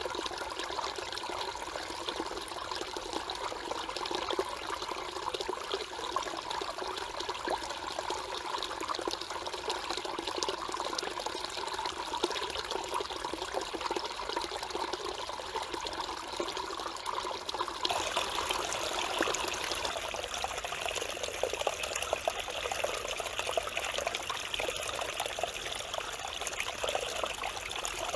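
Mountain stream flowing and babbling over rocks, a steady rush of water. About two-thirds of the way through the sound turns brighter and more hissing.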